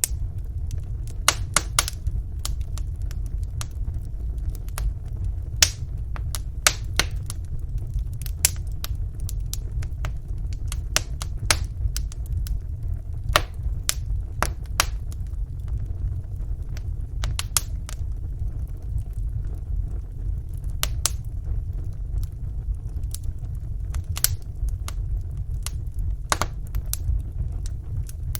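Wood fire burning in a fireplace: a steady low rumble of the flames with small, sharp crackles and pops at irregular moments, a few of them louder.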